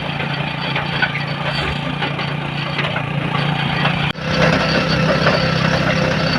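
Vehicle engine running steadily with road noise. It breaks off abruptly about four seconds in and comes back somewhat louder.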